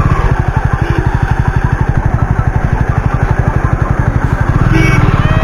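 Jawa 42 motorcycle's single-cylinder engine idling steadily just after being started, an even rapid pulsing.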